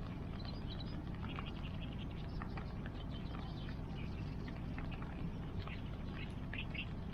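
Wood bonfire crackling, with frequent small pops and snaps over a steady low rushing background.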